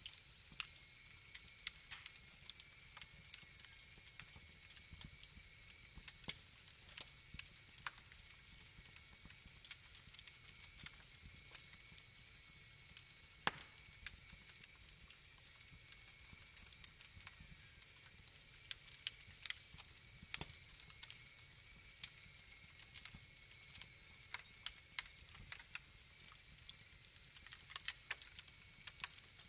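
Wood fire crackling: irregular sharp pops and snaps over a faint low hiss, with a couple of louder pops, one about halfway through and another about two-thirds in.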